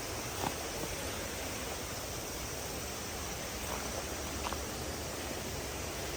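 Steady rushing of flowing water, an even hiss, with a few faint ticks about half a second in and again near the middle.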